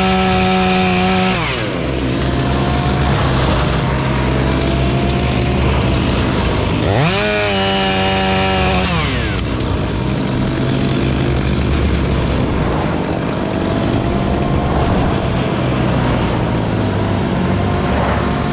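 Two-stroke chainsaw revving at full throttle, dropping back to idle about a second and a half in. It is revved up again near the middle, held for about two seconds, then let back down to idle.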